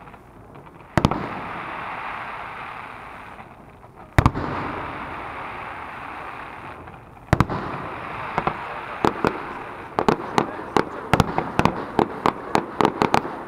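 Aerial firework shells bursting: single sharp bangs about one, four and seven seconds in, each trailing off into a long wash of noise, then a quickening run of bangs, two or three a second, over the last few seconds.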